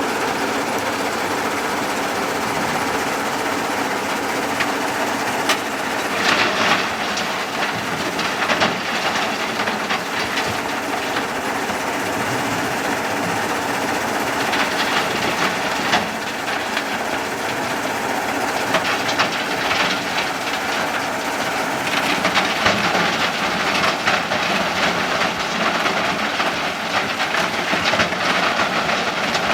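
JCB 3DX backhoe loader's diesel engine running steadily, with repeated stretches of metallic rattling and clanking from the machine as it works.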